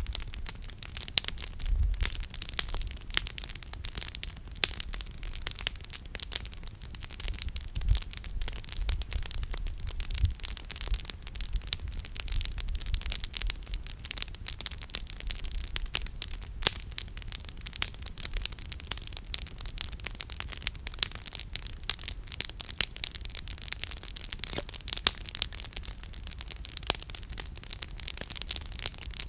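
Wood campfire crackling, with frequent sharp pops and snaps of burning firewood over a steady low rumble.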